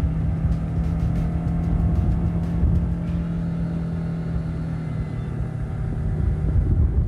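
Mercury 150 four-cylinder four-stroke outboard running steadily at planing speed, a held engine drone over heavy low rumbling noise from the boat moving through the water.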